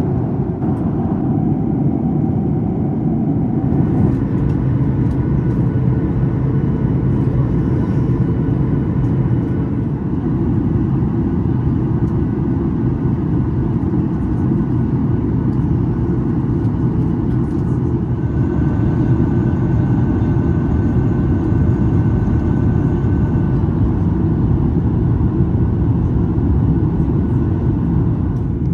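Steady low cabin roar of a Boeing 737 MAX 8 in descent, heard from a passenger seat, with faint steady whines above it; a higher whine joins for a few seconds past the middle.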